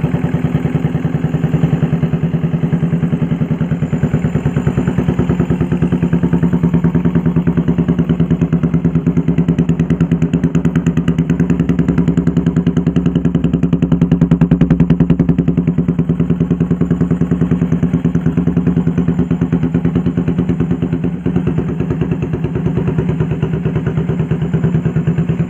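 Yamaha Vixion's 150 cc single-cylinder four-stroke engine idling steadily through an aftermarket Cobra-style exhaust, with a slight rise in level about midway.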